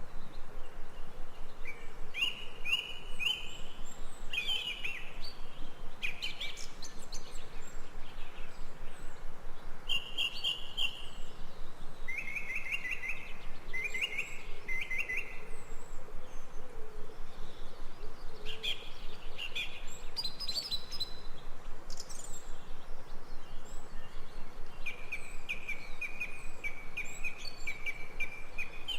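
Birds calling in short, repeated trilled phrases, one after another, over a steady background hiss.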